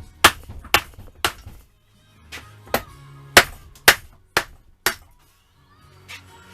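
Sharp metal hammer blows, about two a second with two short pauses, struck while knocking the seized cylinder barrels off a Yamaha FZR1000 engine whose two middle pistons are rusted in place.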